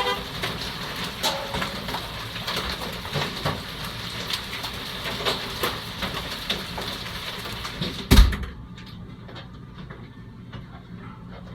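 Hailstorm: a dense hiss of rain with many sharp hail strikes. About eight seconds in a door shuts with a heavy thud, and after that the storm is muffled and much quieter.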